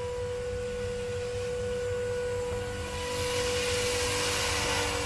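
Walkera V500D01 electric RC helicopter in flight: a steady high whine from its motor and spinning rotors, with a rushing hiss joining in about three seconds in.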